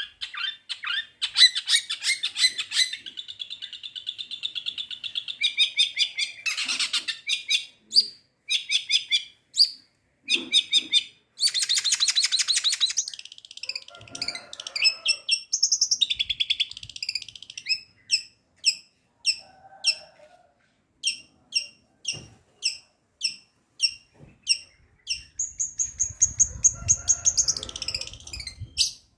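Long-tailed shrike (cendet) singing a varied song of mimicked calls: fast, dense trills in the first half, then a long run of short, evenly spaced chirps, and a high trill near the end.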